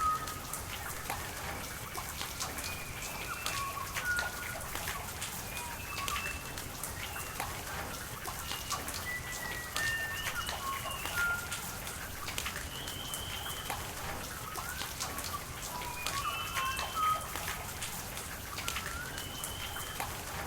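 Steady rain with many individual drops ticking close by, and short whistled bird calls scattered throughout, some flat and some rising.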